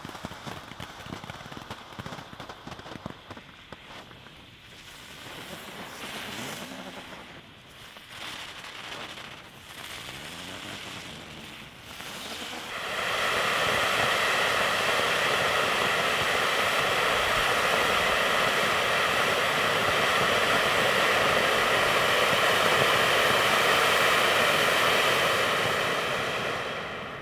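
A ground firework fountain hissing steadily as it throws sparks. The hiss starts suddenly about halfway in and holds for about thirteen seconds before dying away near the end. Before it come fainter, uneven crackles and pops from other fireworks.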